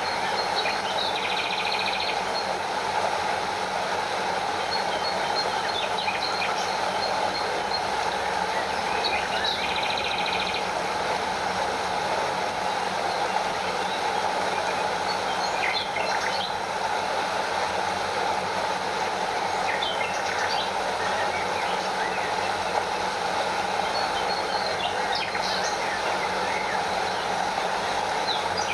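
Stream water rushing steadily over a small waterfall, with occasional short chirps and buzzy calls above it, about five times.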